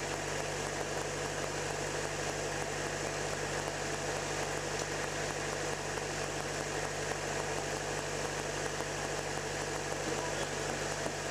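Toyota 2L inline-four diesel engine running steadily at a raised idle while it circulates the engine-flush oil.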